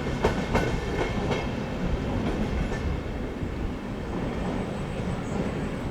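Passenger train rolling through the station's curved trackwork, its wheels clicking four times over rail joints and points in the first second and a half over a steady rumble. A faint high squeal of wheel flanges against the curved rail starts near the end.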